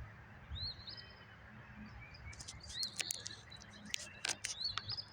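Small birds chirping: short rising-and-falling chirps in little clusters every couple of seconds, over a faint steady low hum.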